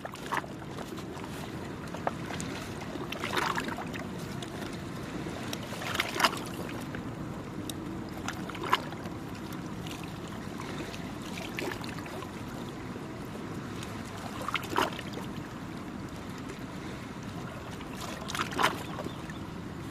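Small waves lapping and splashing at the shore in short irregular splashes every few seconds, over a steady low rumble.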